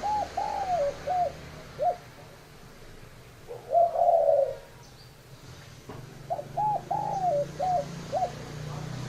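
Spotted dove cooing: two phrases of several short, arched coos, with a louder, rougher coo between them.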